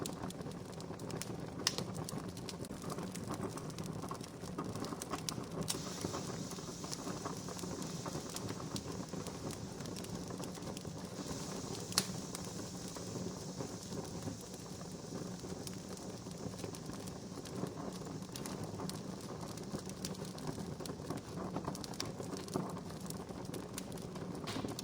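Wood campfire crackling steadily, with scattered sharp pops and a soft hiss.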